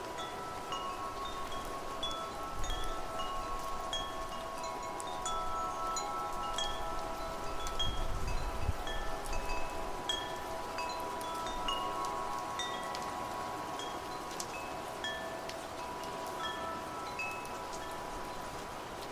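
Wind chimes ringing continuously, many metal tones struck in an irregular pattern and ringing on, over a steady hiss of rain. Gusts of wind rumble on the microphone about 3 seconds in and again around 8 to 9 seconds in.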